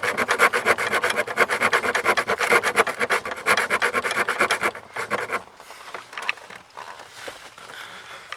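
Hand saw rasping back and forth in quick, even strokes while cutting through the HVAC housing to free the heater core. The strokes stop about five seconds in, leaving a few faint scrapes and taps.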